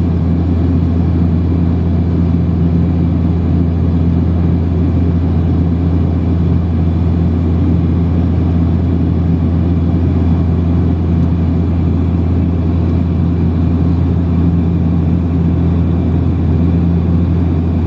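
Airliner engine noise heard from inside the passenger cabin: a steady, loud drone with a constant deep hum that does not change.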